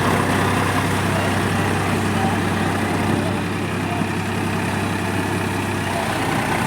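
Tractor engine idling steadily, with a constant low hum.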